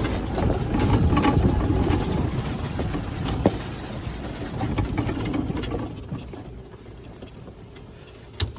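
Old golf cart driving over rough ground, a low rumble with rattling and clatter that drops down about six seconds in.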